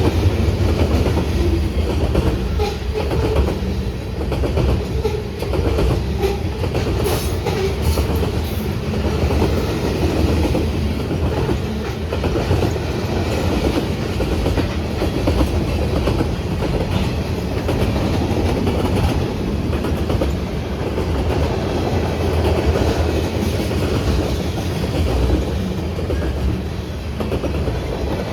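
A train rolling past on the tracks: a steady, loud rumble with the clatter of wheels over rail joints.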